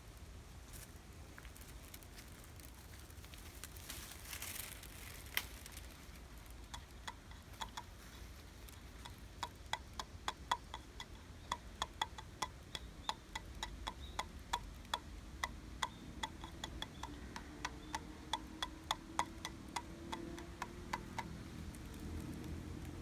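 Bamboo stems knocking together in the wind: a long run of sharp clicks at about two to three a second over a steady low wind rumble. A gust rushes through the leaves about four seconds in.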